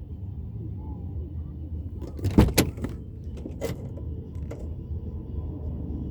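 A steady low distant rumble, which had been taken for an approaching train but is not one. About two and a half seconds in come a few sharp clicks, the loudest sounds, with single clicks a second and two seconds later.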